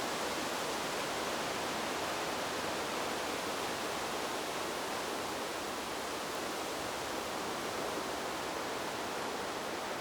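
Steady rushing noise of wind blowing through trees, an even, unbroken hiss that holds the same level throughout with no gusts or separate sounds.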